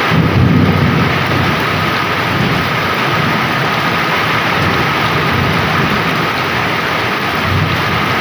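Heavy rain pouring steadily, with a low roll of thunder that swells right at the start and fades over the next couple of seconds.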